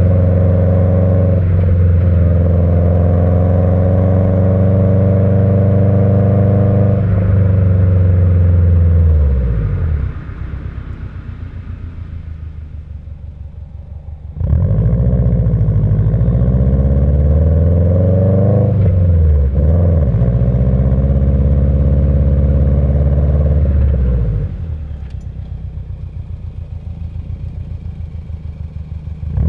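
Subaru EJ20 turbo flat-four with unequal-length headers and a Kakimoto muffler, driving hard with its uneven boxer rumble, the pitch rising and falling with the revs. Twice the throttle comes off and the engine drops much quieter for a few seconds, about ten seconds in and again near the end. Each time it comes back on load suddenly.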